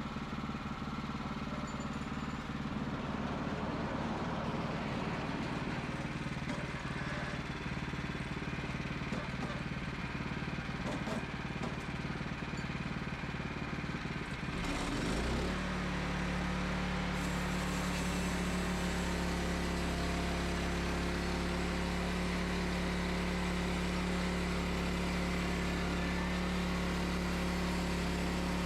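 Wood-Mizer LX25 portable sawmill's engine running. About halfway through its note changes abruptly, then holds steady.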